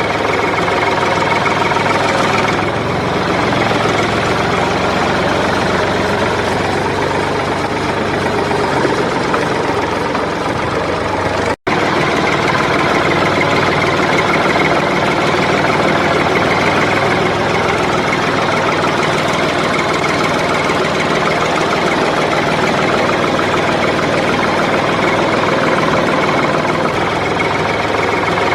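Motor of a DIY mini tractor cultivator running steadily. The sound cuts out abruptly for an instant about eleven and a half seconds in, then carries on.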